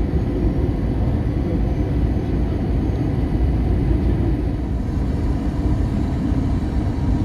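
Steady low rumble of an Airbus A321 passenger cabin in flight: engine and airflow noise, even and unchanging.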